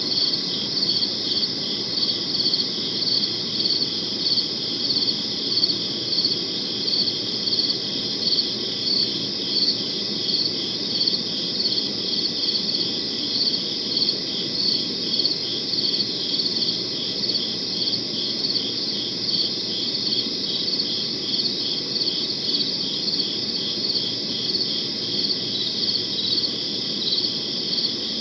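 Crickets chirping in a steady chorus at night, a high repeated chirp about twice a second over a low background hum, unchanging throughout.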